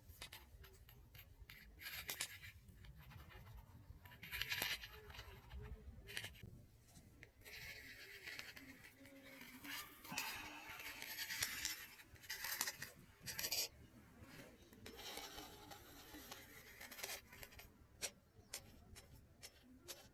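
Close-miked ASMR rustling and crunching, in irregular bursts of scratchy noise with a few sharp ticks between them.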